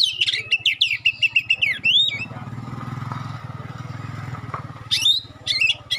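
Oriental magpie-robin (kacer) singing rapid, sharp whistled notes, broken off after about two seconds by the steady drone of a passing motorcycle engine; the sharp notes come back near the end.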